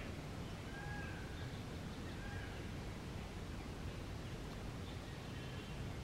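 Steady low background noise with a few faint short bird calls, about a second in, again near two seconds and around five seconds in.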